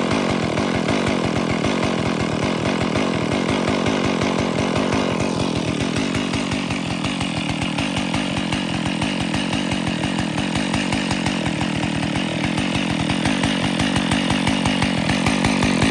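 Stihl MS461 two-stroke chainsaw engine running steadily after a cold start, with an even, rapid firing pulse. Its tone shifts about five seconds in, then holds.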